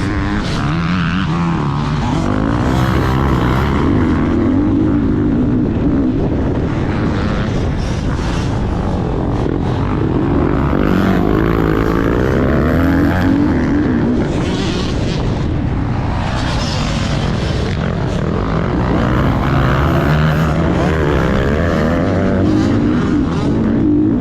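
Motocross dirt bike engine running hard, its revs rising and falling over and over.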